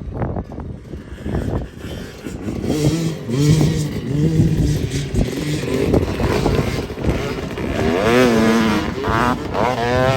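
Two-stroke dirt bike engine revving on and off under the throttle. Near the end its pitch swings up and down in quick waves. The start is noisy, with knocks and wind.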